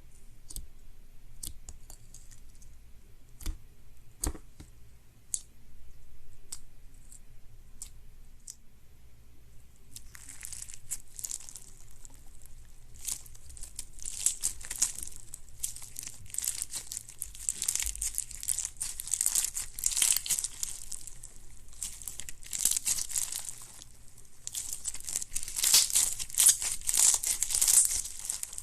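Crunchy slime being pressed and kneaded by hand: scattered sticky clicks and pops at first, then from about ten seconds in a dense run of crackling and crunching that grows louder near the end.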